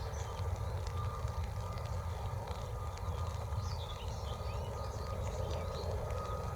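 Distant Boeing 777 freighter's GE90 turbofan engines at takeoff power: a steady low rumble with a faint, steady whine above it. Small birds chirp over it now and then.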